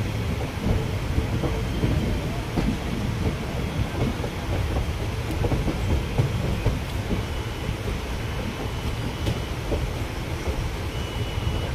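Passenger train running, heard from on board: a steady rumble with irregular wheel clatter over the rail joints.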